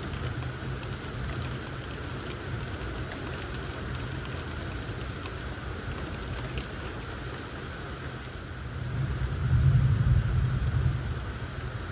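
Steady rain with a scattering of faint drop ticks, under a low rumble of thunder that swells about nine seconds in and dies away over the next two seconds.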